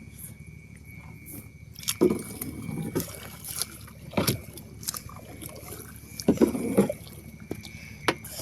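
Water sloshing and splashing around a canoe, with irregular knocks and splashes every second or two, several of them loud.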